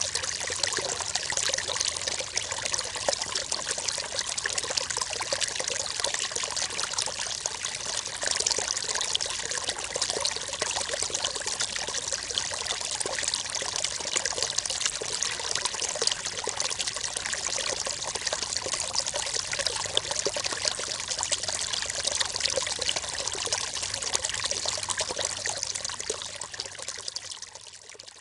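River water flowing: a steady rush of water with a fine, hissy splashing texture, fading out near the end.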